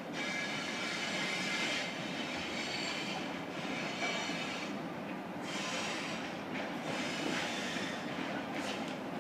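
A vehicle running steadily with a continuous rumble, overlaid by a high whine that drops out briefly a few times.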